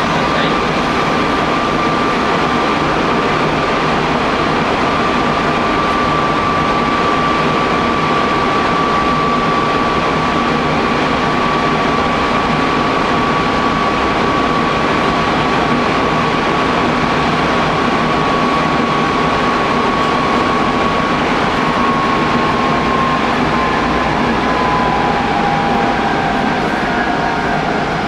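Hanshin Railway electric local train running between stations, with steady running noise and a clear motor whine that holds one pitch, then falls in pitch over the last several seconds as the train slows.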